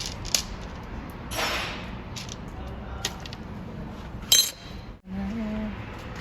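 Metal tools and engine parts clinking during hands-on engine work. There is a short hiss about a second and a half in, and a sharp metallic clink that rings briefly a little after four seconds in.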